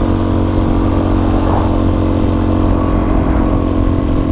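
Dual-sport motorcycle engine running at a steady, unchanging speed.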